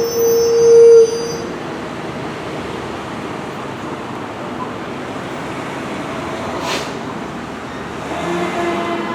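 Fire engine air horn sounding one loud, steady blast of about a second at the start, then steady engine and road noise of the passing emergency vehicles. A siren starts winding near the end.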